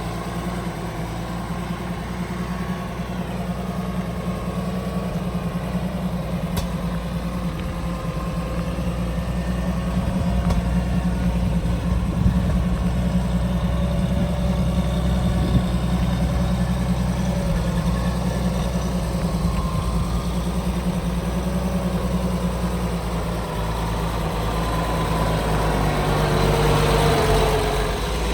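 1970 Toyota Land Cruiser's inline-six engine running steadily with a low drone. It gets louder about ten seconds in, and near the end the pitch rises briefly.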